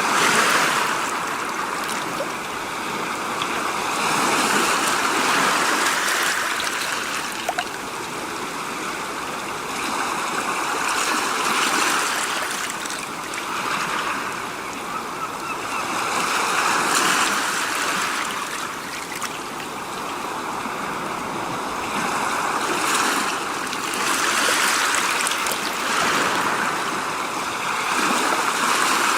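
Rushing water noise that swells and eases every five or six seconds.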